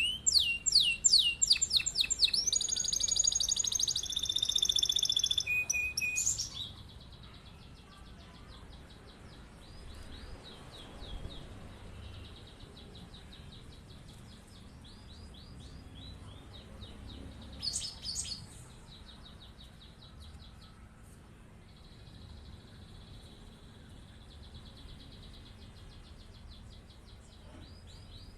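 Domestic canary singing long rolling trills of fast repeated high notes, loud for about the first six seconds, then going on much more faintly, with one short louder phrase about two-thirds of the way in.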